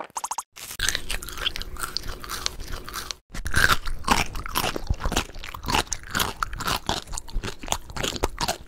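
Close-miked eating sounds: crunchy bites and chewing of crispy fried food, in quick crackling runs, broken twice by short pauses, about half a second in and just after three seconds.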